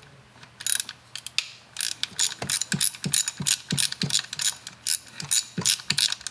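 Socket ratchet wrench clicking, a couple of single clicks and then a steady run at about four clicks a second, as the bolt holding an ignition coil pack is worked loose.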